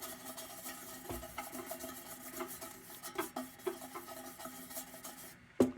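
Quiet, irregular rubbing strokes on the tin of a Dietz Blizzard lantern as its surface is worked clean of light rust and grime, with a sharp knock near the end.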